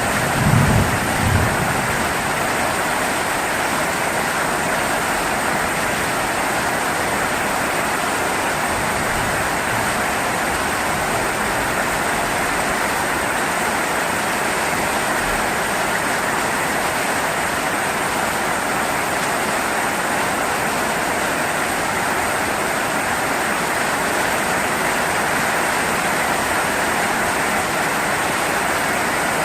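Heavy rain falling steadily. The last of a low thunder rumble dies away in the first second or so.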